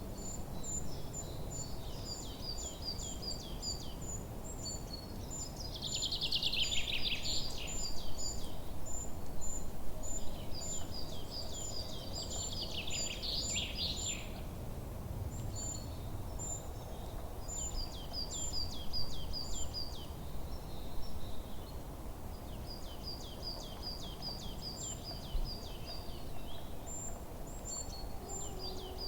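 Songbirds calling in a forest: an even series of short, high chirps with repeated runs of quick falling notes, and two louder, denser passages of song about six and twelve seconds in. A steady low background rumble lies underneath.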